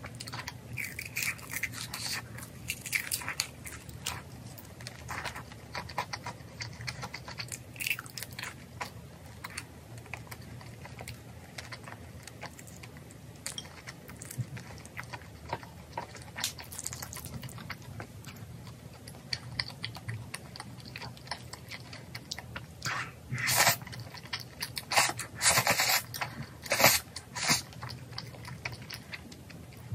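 Close-up chewing and crunching of crispy fried chicken, with many small crackling bites. A cluster of louder crunches comes about three-quarters of the way through.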